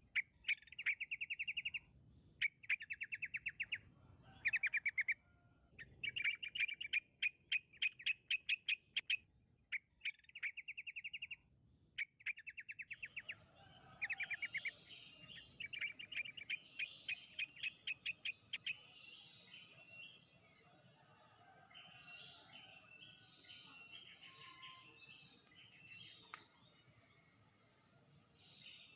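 Bulbuls calling in repeated bouts of rapid, chattering notes, each bout about a second long. About halfway through, a steady high-pitched insect drone starts and runs under the calls.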